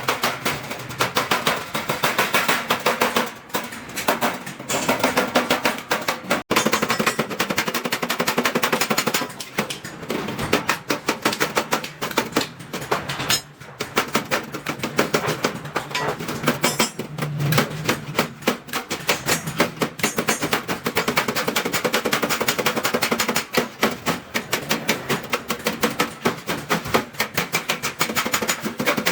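Rapid, steady hammer blows on stainless steel sheet, the metal ringing with each strike as it is shaped by hand.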